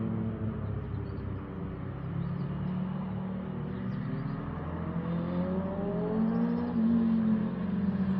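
Motorcycle engine running under way, its pitch sagging low at first and then rising and getting louder through the second half as the bike accelerates.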